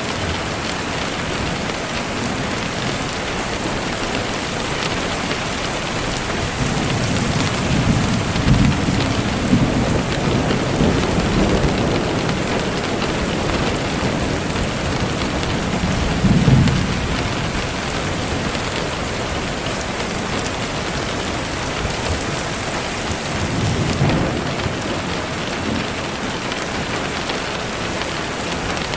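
Steady heavy rain with rolling thunder: a long rumble about a quarter of the way in, building to its loudest peak a little past halfway, and a smaller rumble later on.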